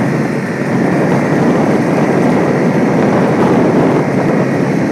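Quad (ATV) engine running steadily as it is ridden along, mixed with road noise.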